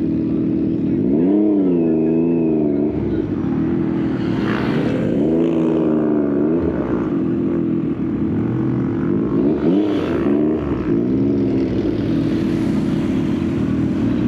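Yamaha XSR900's inline three-cylinder engine through an Akrapovič exhaust, running steadily at low revs. Its pitch rises and falls three times as the throttle is worked.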